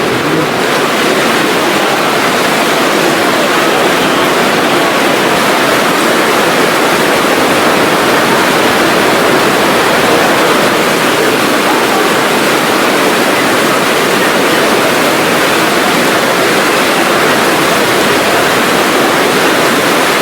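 Rain falling in a steady, loud downpour.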